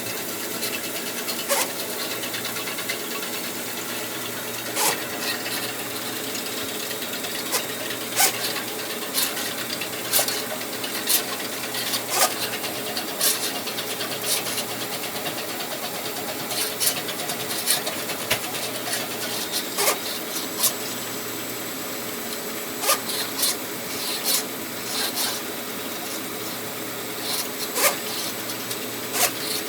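Electric flexible drain-rod machine running steadily, spinning its steel wire inside a drain pipe. Irregular clicks and knocks, roughly one a second, come from the wire working its way through the pipe as it is pushed round a bend.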